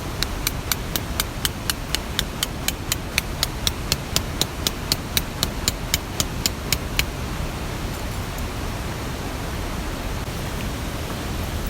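A quick, even series of sharp taps, about four a second, that stops about seven seconds in, over the steady rushing of water from rain and a mountain stream.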